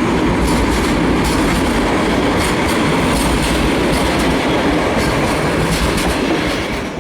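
Passenger carriages of an EP09-hauled Intercity train rolling past, the wheels clicking over rail joints above a steady rumble; the sound falls away near the end as the train moves off.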